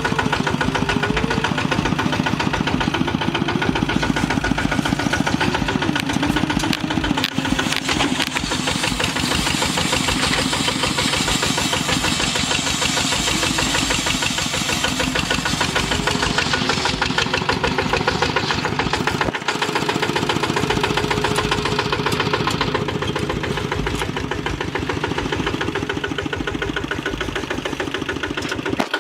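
Single-cylinder diesel engine of a Kubota RT two-wheel hand tractor running steadily, with a fast, even firing beat.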